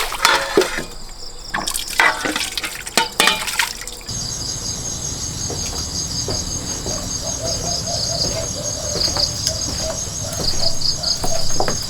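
Water splashing and sloshing with small knocks. About four seconds in it cuts abruptly to a steady, high chirring of insects that runs on evenly.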